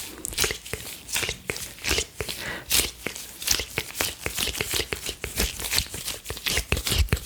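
Close-miked ASMR gloves rubbing and crinkling, mixed with wet mouth clicks and pops ("plug & flic" mouth sounds), in quick, irregular crisp bursts.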